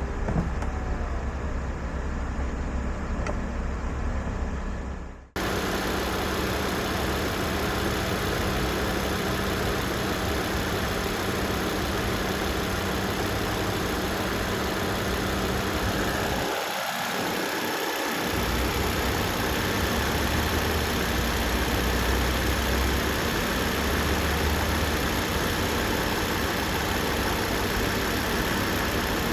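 2011 Volvo C70 T5's turbocharged 2.5-litre five-cylinder engine idling steadily. About five seconds in, the sound fades briefly and changes to a brighter, hissier idle heard close to the engine bay.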